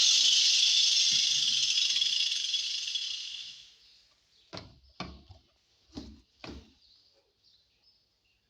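A handheld sander or grinder running against the wooden subwoofer box, removing material to enlarge the opening; it dies away a few seconds in. Then four sharp knocks, in two pairs.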